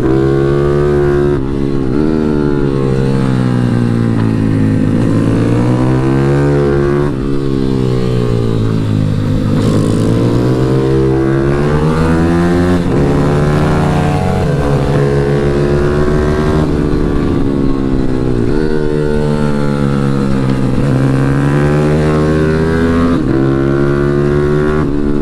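Pit bike's single-cylinder four-stroke engine ridden hard round a track, its pitch climbing as it revs out and falling back for the corners, over and over. There are brief dips about 1.5 and 7 seconds in, where the throttle is shut for gear changes.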